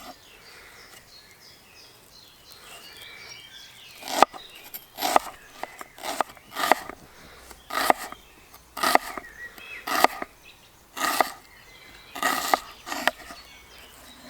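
Birds chirping faintly, then from about four seconds in a run of sharp strikes, roughly one a second, each with a short scraping tail.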